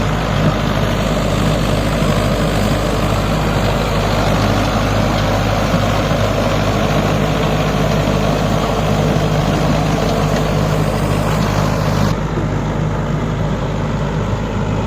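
Mahindra 555 tractor's diesel engine running steadily under load while working a rotary tiller, with a low, even drone. About twelve seconds in, the higher hiss drops away abruptly while the engine drone carries on.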